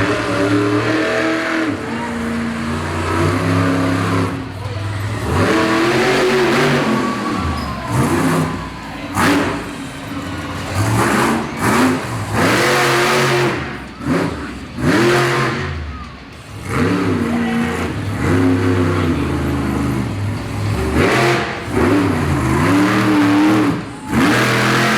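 Monster truck engine revving hard over and over, its pitch climbing and dropping every second or two as the throttle is worked.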